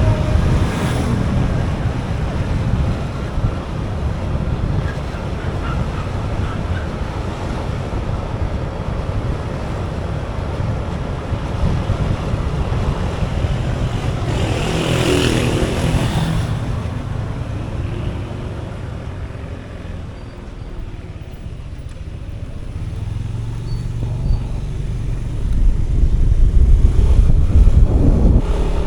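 Road noise from a moving motorcycle: a steady low rumble, with another vehicle passing about halfway through and the rumble swelling louder near the end.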